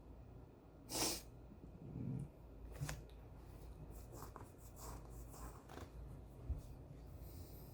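Quiet desk-work sounds: a short, sharp rush of breath-like noise about a second in, then a soft thump and a run of faint ticks and scratches of pen and paper being handled.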